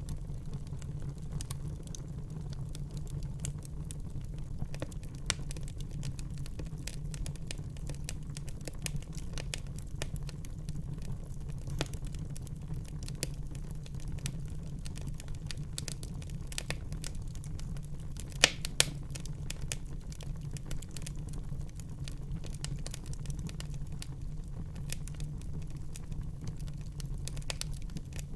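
Fire burning in a fireplace: a steady low rumble of flames with frequent small crackles, and two sharper, louder pops about two-thirds of the way through.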